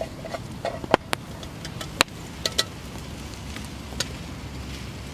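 Campfire crackling, with a handful of sharp, irregular pops over a low steady background.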